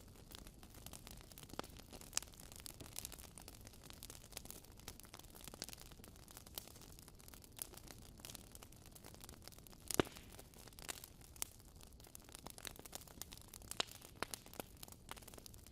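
Wood fire burning in a fireplace, crackling steadily with frequent small snaps and one louder pop about ten seconds in.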